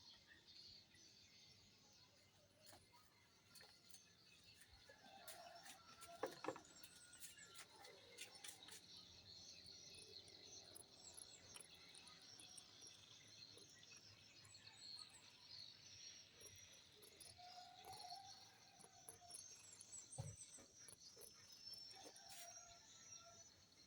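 Faint, steady high-pitched insect chirping, with scattered soft clicks and a few brief faint calls.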